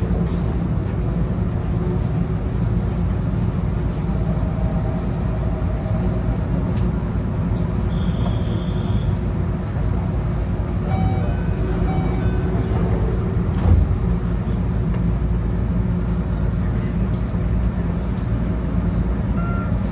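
Steady low hum and rumble of a stationary Enoshima Electric Railway train, its onboard equipment running while it stands at a station, with one brief thump about three quarters of the way through.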